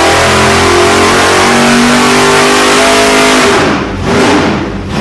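High-performance car engine running loud at high revs, held steady for about three and a half seconds, then dropping and being revved back up twice near the end.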